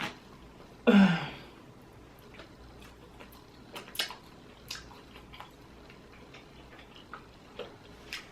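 Close-up eating sounds from peeling crawfish: one loud wet sound about a second in, then scattered small clicks and cracks of shells being broken.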